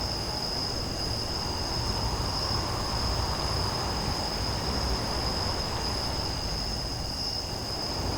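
A steady chorus of crickets, one high continuous trill, over a low, even rushing noise.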